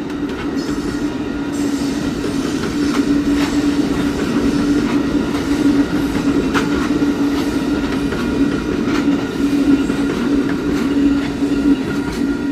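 Train rolling past, its wheels clicking over the rail joints, with a steady humming tone throughout. It grows louder over the first couple of seconds.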